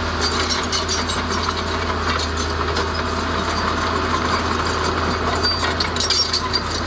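Heavy diesel engine of earth-moving machinery running steadily, with scattered light metallic clinks over the low hum.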